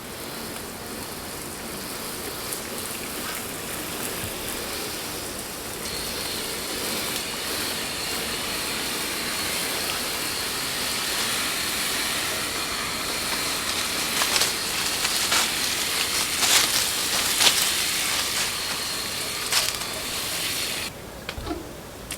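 Steady sizzling hiss of cooking that builds over the first few seconds, with a thin high tone joining about six seconds in and scattered crackles and pops in the second half. It cuts off suddenly shortly before the end.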